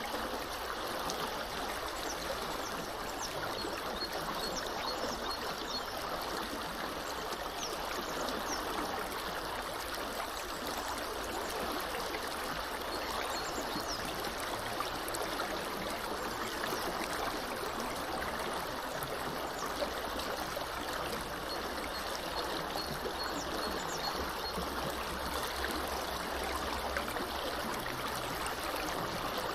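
A small river flowing steadily, an even rushing and trickling of water. A bird gives a quick run of high, evenly spaced chirps a few times.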